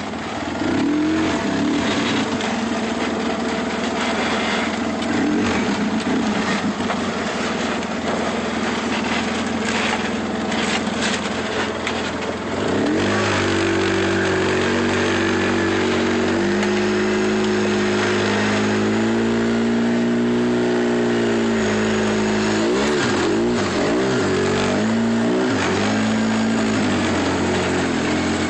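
Truck engine running with a rushing noise for the first half. From about halfway the engine note holds steady, then rises and falls in pitch several times as it is revved.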